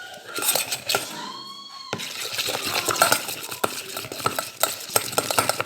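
Glue and slime activator being stirred in a small container with a utensil: quick, irregular scraping and clicking against the container. A brief arched tone sounds about a second in.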